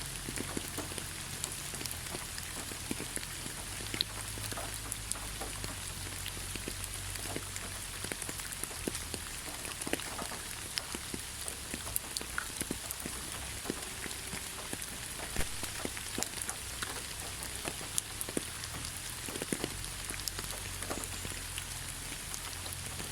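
Steady rain falling in a forest: an even hiss of rainfall with many separate drops ticking sharply on leaves and surfaces.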